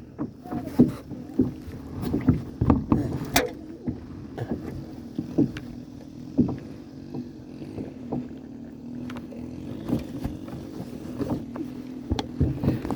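Kayak on the water: irregular knocks and bumps on the hull over a steady low hum, with some water sound.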